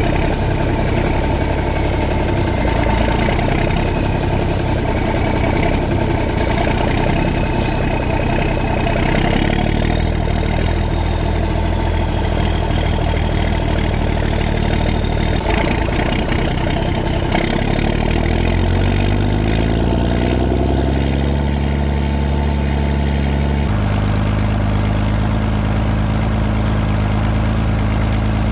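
John Deere 4630 tractor's straight-piped turbocharged six-cylinder diesel running loud and steady. The engine note climbs about two-thirds of the way through, then holds at the higher pitch.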